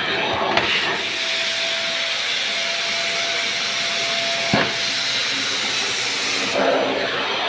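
Vacuum cleaner running with a steady hissing rush of suction, its sound changing briefly as the nozzle's airflow shifts near the start and near the end. A single knock about four and a half seconds in.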